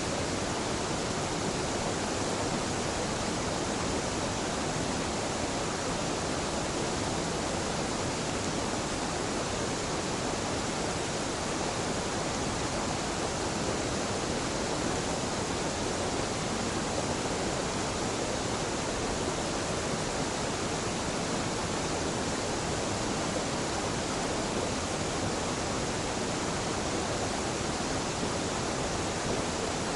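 Waterfall on a mountain river: a steady, unbroken rush of falling water that stays constant throughout.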